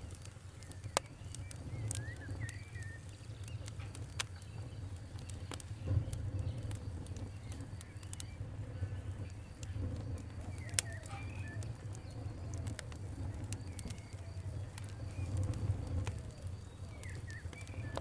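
Wood fire crackling, with sharp pops at irregular intervals over a low steady rumble. Birds chirp a few times in the background.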